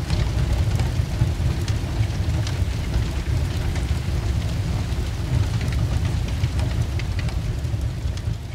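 Sound of a large fire: a steady low rumble of flames with scattered crackles, fading out near the end.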